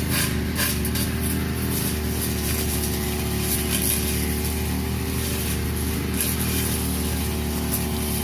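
Petrol brush cutter running steadily at cutting speed, its engine note even, with short sharp hissing swishes as the blade or line tears through grass.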